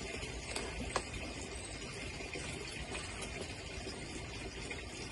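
Steady, faint rushing of wind outdoors, with a single light click about a second in.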